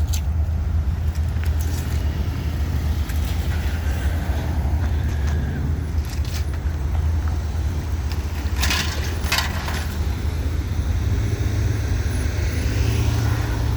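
Motor vehicle engine running steadily, a low rumble that shifts a little higher about eleven seconds in, with a few sharp clattering sounds around nine seconds in.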